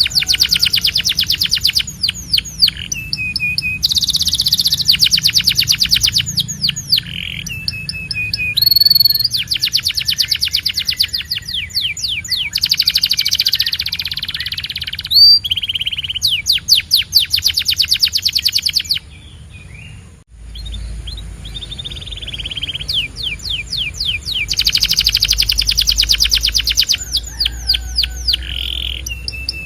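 Domestic canary singing: long rapid trills of repeated notes, sweeping whistled notes and buzzy rolls in quick succession. The song breaks off briefly about two-thirds of the way through, then resumes.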